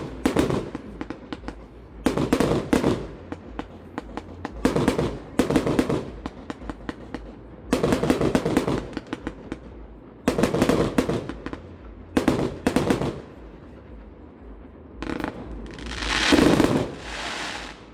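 Fireworks display: shells bursting in clusters of bangs and crackles every two to three seconds, with a louder, longer crackling burst near the end.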